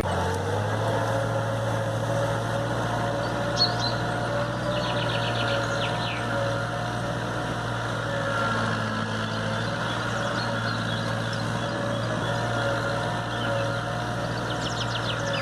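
A small motor running steadily with an even hum, which the material points to as the DIY mini tractor's motor. Birds chirp briefly a few seconds in and again near the end.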